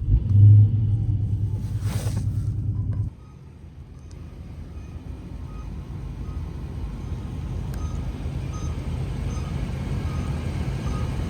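Dodge muscle car's engine pulling hard under acceleration for about three seconds, then cutting back suddenly to a lower, steady cruising drone that slowly builds again.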